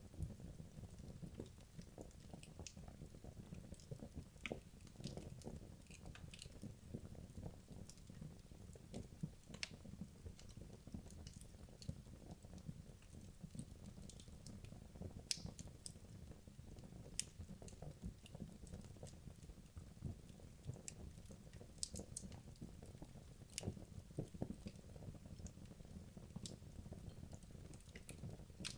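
Wood logs burning in a fireplace: a faint, steady low rumble of flames with scattered, irregular crackles and pops, a few of them sharper and louder.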